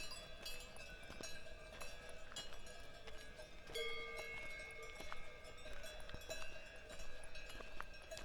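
Cowbells on grazing cows clanking and ringing irregularly, several bells at different pitches, with the hiker's footsteps crunching on the trail.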